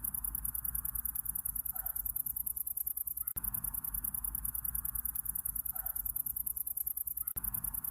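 Night insect chorus of crickets giving a fast, high-pitched, steady pulsing trill over a low rumble. A short faint call comes about two seconds in and again four seconds later, and the whole sound repeats every four seconds as a loop.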